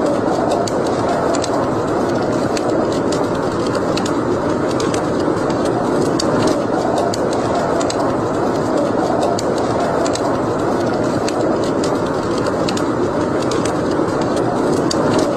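Wood fire burning in a fireplace: a steady hiss with frequent small crackles and pops scattered throughout.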